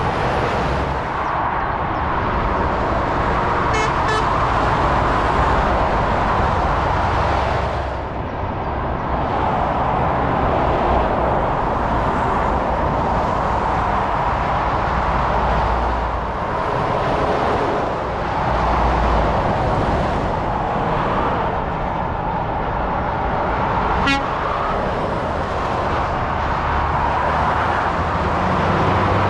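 Steady motorway traffic, lorries and cars passing in a continuous stream of tyre noise and low engine rumble, swelling and easing as each goes by. A brief horn toot sounds about four seconds in and another near twenty-four seconds.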